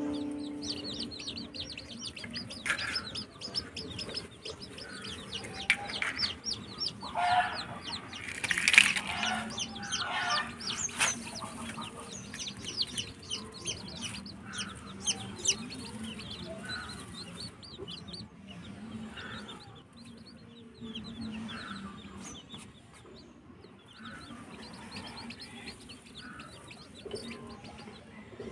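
Chickens calling: a dense stream of short, high chirps, many each second, with louder, lower clucking calls about a third of the way in.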